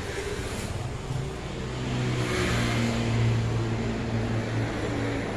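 A motor vehicle engine running nearby, a steady low hum that swells louder through the middle and eases off again.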